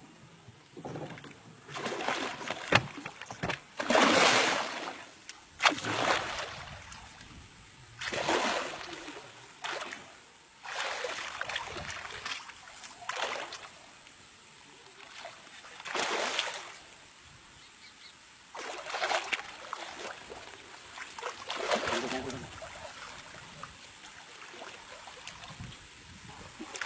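Water splashing in short bursts every couple of seconds, about ten times.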